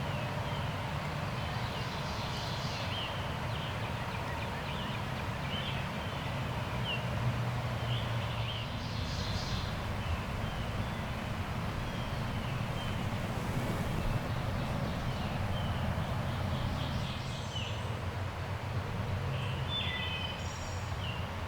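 Small birds chirping and singing in short phrases at intervals, over a steady low rumble.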